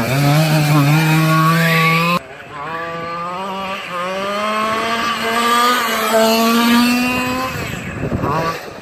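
Gasoline two-stroke engine of a Losi 1/5-scale Monster Truck XL RC truck revving, its pitch rising and falling as the throttle is worked; the sound drops suddenly about two seconds in, then carries on.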